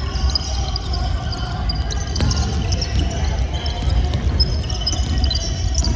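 Basketball game on an indoor court: a ball bouncing a few times and sneakers squeaking on the floor, over a steady low rumble.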